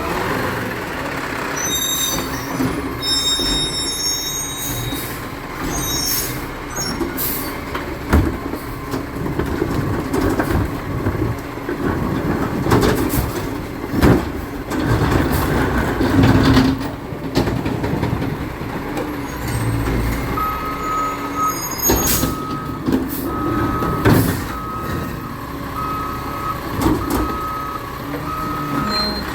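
Recycling truck's diesel engine running, with repeated clanks and knocks from the truck working. In the last third its backup alarm beeps about once a second.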